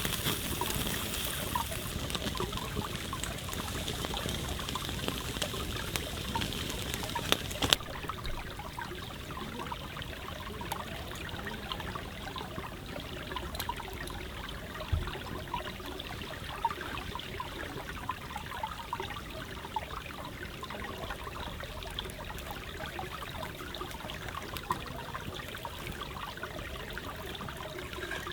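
A forest stream trickling and flowing, with many small ticks and pops scattered through it. A higher hiss drops away about eight seconds in.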